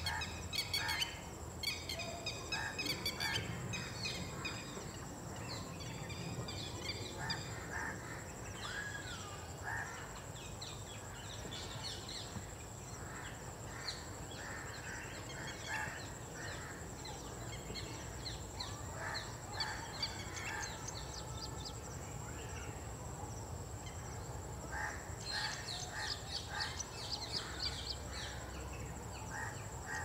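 Wild birds chirping and calling in short notes, thickest in a burst a few seconds before the end, over a steady high whine.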